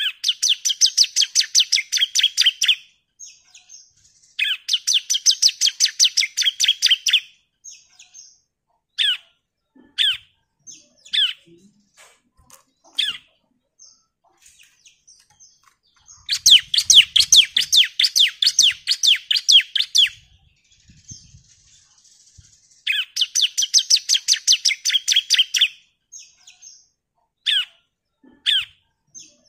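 Bar-winged prinia (ciblek) singing: four long bursts of rapid, repeated high chipping notes, each lasting about three seconds, with single short down-slurred calls in the gaps between them.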